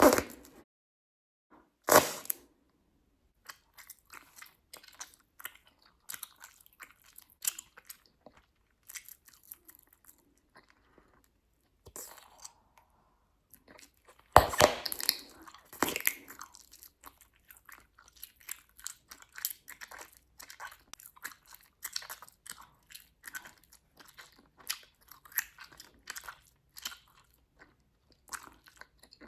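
Bubblegum being chewed close to the microphone: a steady run of small wet smacks and clicks. There is a sharp snap about two seconds in and a louder burst of snapping and popping around halfway through, as bubbles are popped.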